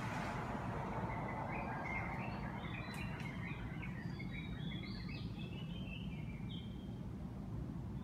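Small birds chirping: a run of short, quick high chirps from about a second and a half in until near the end, over a steady low background rumble.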